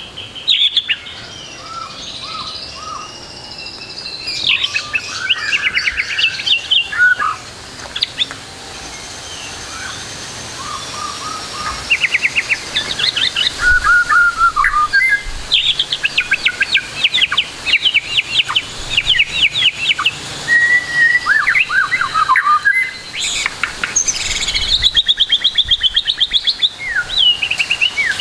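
White-rumped shama singing a long, varied song of fast repeated-note trills, whistles and chattering phrases, packed with calls borrowed from other birds.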